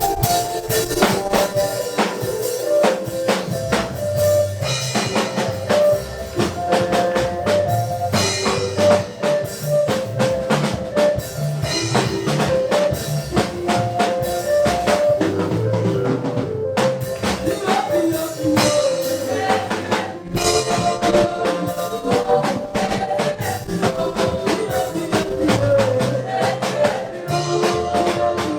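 Live gospel praise music from a church band: a drum kit keeps a steady beat under a bass line and a stepping melody.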